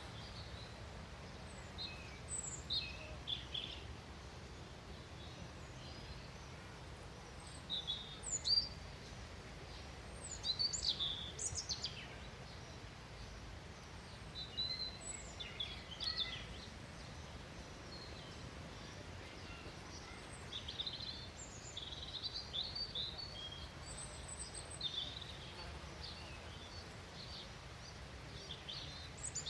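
Wild songbirds chirping and calling in scattered short bursts, some notes sweeping quickly downward, over a steady low background hum of outdoor ambience.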